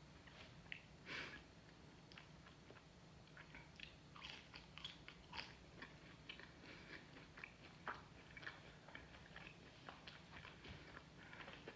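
A person chewing and biting food close to the microphone: a faint, irregular run of short crunchy clicks and mouth sounds.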